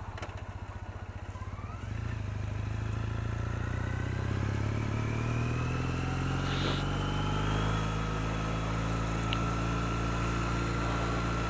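2008 Triumph Bonneville's parallel-twin engine at low revs, then pulling from about two seconds in, its note rising steadily as the bike accelerates. A single brief knock a little past halfway.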